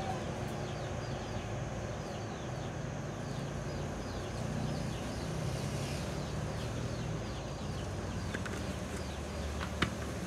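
Birds chirping: a steady run of short, high, falling chirps, about three a second, over a low rumble, with one sharp click near the end.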